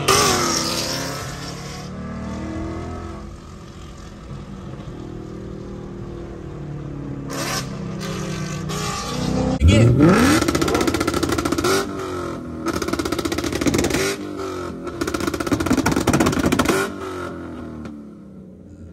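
A Ford Mustang's engine revs fall away and it idles roughly. About ten seconds in, it revs up sharply and holds on a two-step rev limiter for several seconds, the note stuttering with rapid pops from the exhaust. It lets off near the end.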